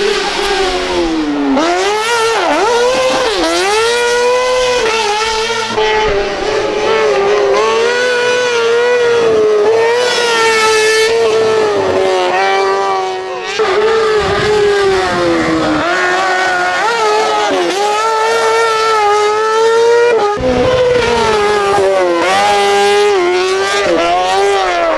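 Kartcross buggy's 600cc motorcycle engine running at very high revs on a hill-climb run. Its pitch keeps rising and dipping as the throttle comes on and off, with a few sudden jumps in pitch where one run gives way to another.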